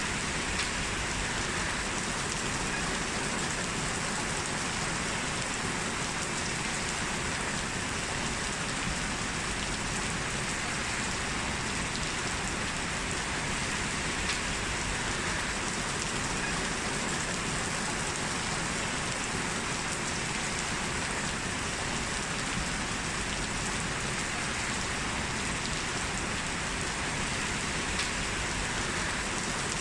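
Heavy rain falling steadily on a street, a dense even hiss of rain with faint individual drop ticks.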